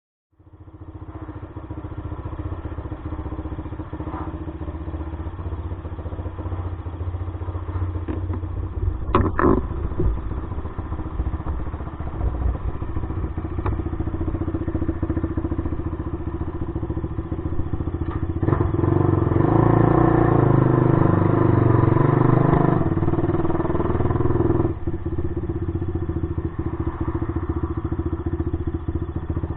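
Suzuki LTR450 quad's single-cylinder four-stroke engine, through an aftermarket DMC exhaust, idling with a short throttle blip about nine seconds in. Later it is held at higher revs for about five seconds before dropping back to idle.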